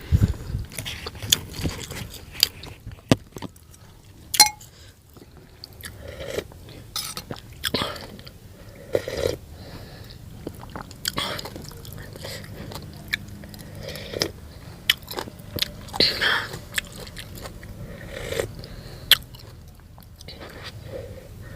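A person eating close to the microphone: irregular crunchy bites, chewing and mouth smacks, many short sharp clicks spaced unevenly.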